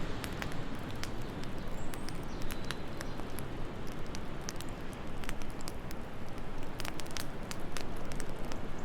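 Wood fire crackling in a fireplace, with many irregular sharp pops and snaps over a steady low rush of wind.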